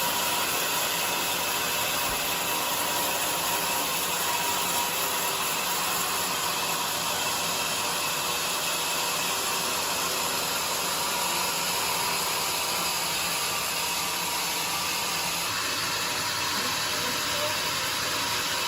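Bandsaw mill blade cutting through a jackfruit log, a steady, dense sawing noise with the machine running under it. The cut's sound thins slightly about three-quarters of the way through.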